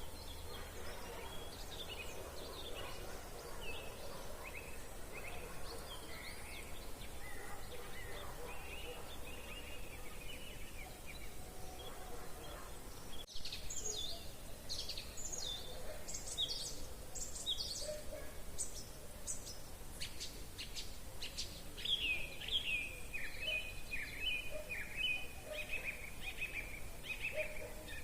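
Several wild songbirds singing over a faint steady low background rumble. About halfway through there is a brief dropout, after which the singing is louder, with quick high sweeping notes and then a fast run of repeated chirps.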